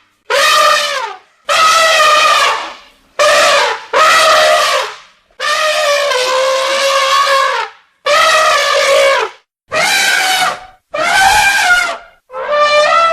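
Elephants trumpeting: a series of about nine loud, brassy calls, each one to two seconds long, separated by short silences.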